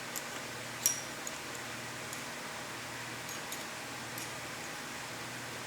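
Wrench snugging the gib screws that hold the knives in a planer cutterhead: a few faint metallic ticks and clicks, with one sharp click a little under a second in, over a low steady hiss.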